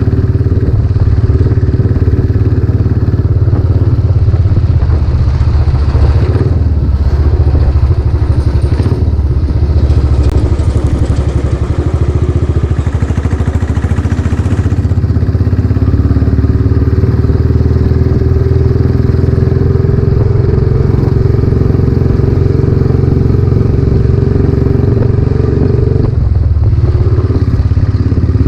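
Royal Enfield Classic 500's single-cylinder engine running loud through a new aftermarket exhaust while the bike is ridden, a steady thump whose pitch slowly rises in the second half and drops briefly near the end.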